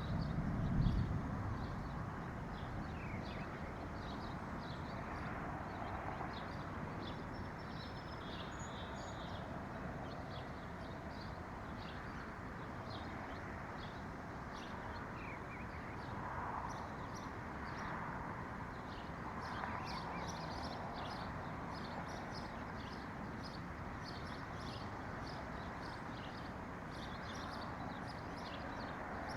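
Wild birds chirping: many short, high chirps scattered throughout, over a steady background rush. There is a brief low thump about a second in.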